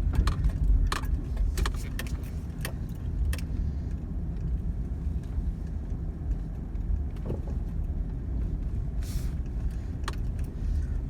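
Car engine and road noise as a steady low rumble heard from inside the car, with a run of sharp clicks over the first few seconds and a short hiss near the end.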